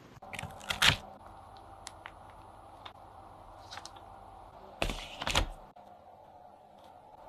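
Kitchen utensils and containers being handled: two clusters of sharp clicks and knocks, about a second in and about five seconds in, with a few faint ticks between.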